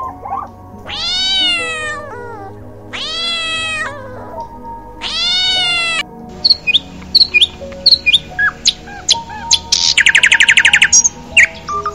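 Three drawn-out meows, each about a second long and rising then falling in pitch. They are followed by a songbird's short chirps and a fast trill near the end, over soft background music.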